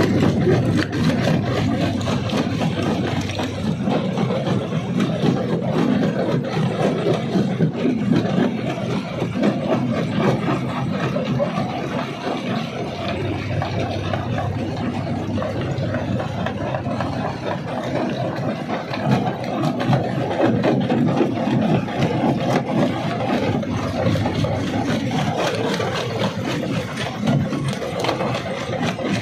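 Rock crusher running, a steady mechanical din thick with rattling and grinding as rock is broken.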